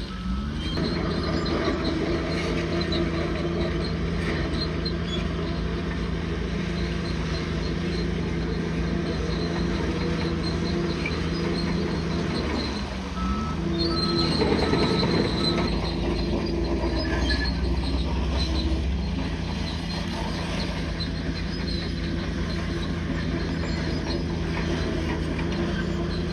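Bulldozer's diesel engine running steadily under work, its pitch dipping and climbing back briefly about halfway through.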